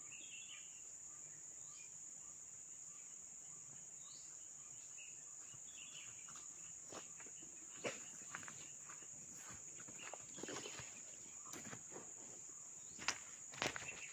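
Insects trilling steadily at one high pitch, with a few short chirps early on. Scattered soft clicks and rustles come in about halfway through and grow more frequent near the end.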